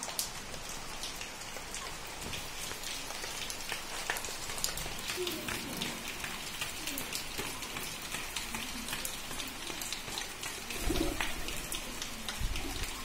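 Steady rain falling, with many separate drops clicking on hard surfaces, and two brief low thumps near the end.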